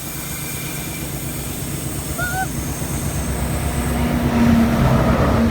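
Two diesel-electric locomotives, 421 class 42103 and 45 class 4532, approaching while hauling a train. Their low engine rumble grows steadily louder, and a steady engine drone comes in about four seconds in. A brief high chirp is heard about two seconds in.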